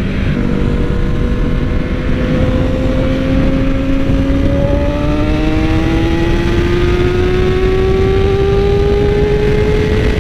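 Yamaha R6 sport bike's inline-four engine pulling under steady acceleration, its pitch rising slowly and evenly, over a constant low rush of wind.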